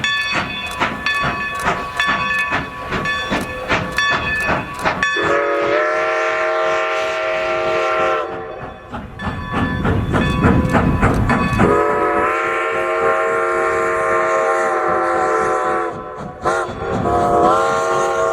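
Steam whistle of Strasburg Rail Road No. 90, a Baldwin 2-10-0 steam locomotive, sounding a chord of several tones in the long–long–short–long pattern of a grade-crossing signal. A low rush of steam fills the gap between the first two blasts. Before the first blast there is a quick regular striking with ringing tones, about three strikes a second.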